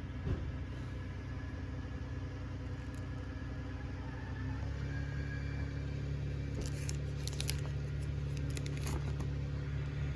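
A steady low mechanical hum that deepens and grows a little stronger about halfway through, with a cluster of light clicks in the second half.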